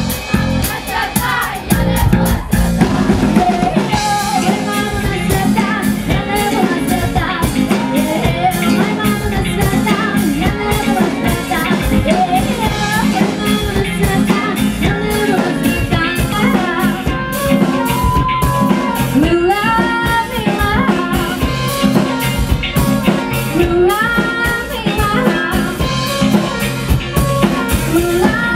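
Live rock cover band playing an instrumental stretch with drum kit, bass and guitar and a melodic lead line over a steady beat.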